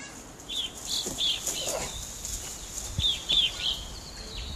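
A songbird singing: two quick runs of three or four high, arched chirps, each run about a second long.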